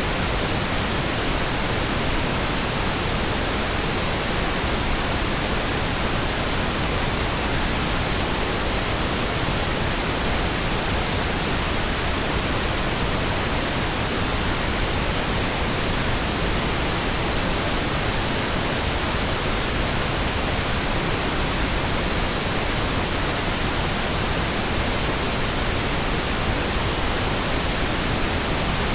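Pink noise: a steady, even hiss spread across all pitches, with no changes or interruptions.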